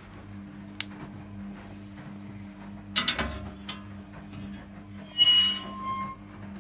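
A knock with a short rattle, then a louder metallic clatter that rings briefly, over a steady low hum.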